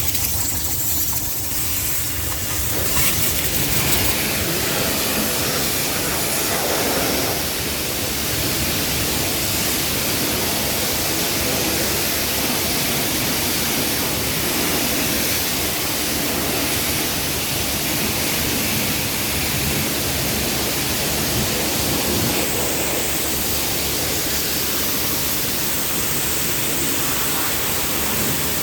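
Car wash spraying water over a car: a loud, steady rushing hiss that swells about three seconds in and then holds even.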